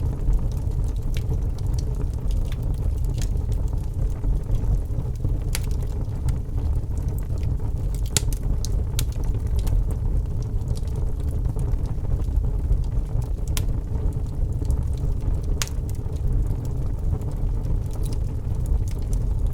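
Wood fire burning in a fireplace: a steady low rumble of flames with scattered sharp crackles and pops, a few louder snaps among them.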